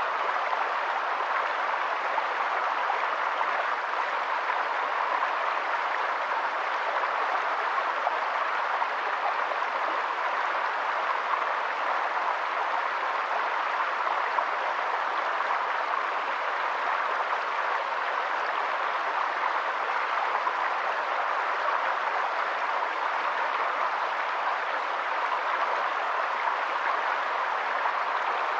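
Steady rushing of running water, even and unchanging throughout, with no single sound standing out.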